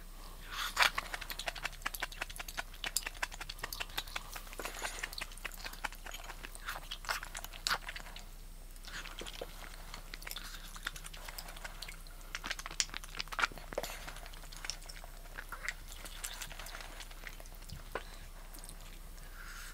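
A person eating close to the microphone: chewing and crunching, many small sharp clicks in bursts with short pauses between.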